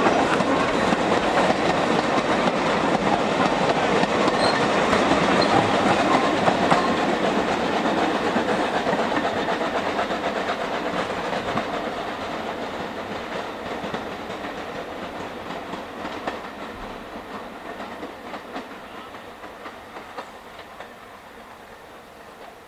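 Train of narrow-gauge slate wagons rolling past, with a continuous clatter of wheels and couplings on the rails, loudest for the first several seconds and then steadily fading away as it moves off.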